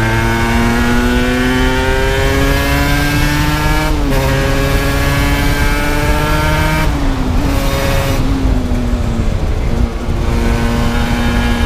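Aprilia RS 125's two-stroke single-cylinder engine heard onboard over wind rush, pulling up through the revs, shifting up about four seconds in, then easing off around seven seconds and holding a steady cruise.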